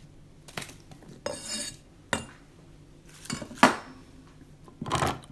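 Kitchen dishes and utensils clattering: a handful of separate knocks and clinks, the sharpest a little past halfway.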